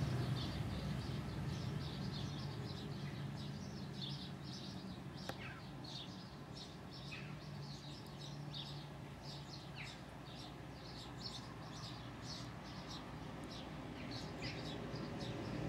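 Small birds chirping, many short high chirps in quick succession with a few downward-sliding calls, over a low steady background rumble.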